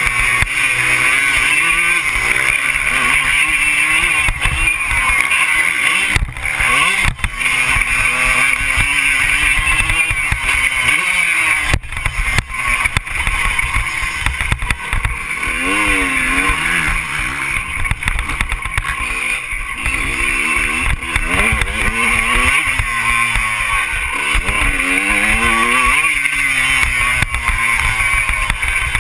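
Motocross bike engine revving up and down repeatedly as it is ridden, over heavy wind rumble on the microphone, with brief throttle dips about six and twelve seconds in.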